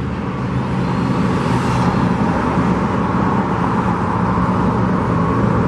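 Steady road traffic noise: cars running past, with a low, even rumble.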